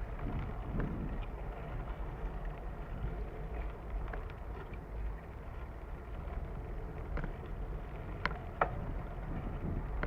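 Bicycle riding along a trail, picked up by a bike-mounted camera: steady wind buffeting and tyre rumble, with a few sharp rattling clicks, two in quick succession near the end.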